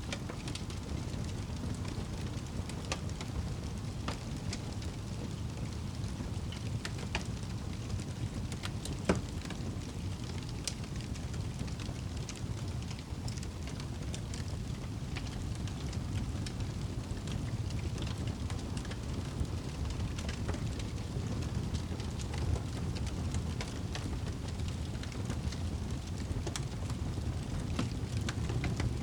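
Wood fire burning in a fireplace, a steady low rumble of flames with scattered crackles and pops, one louder pop about nine seconds in.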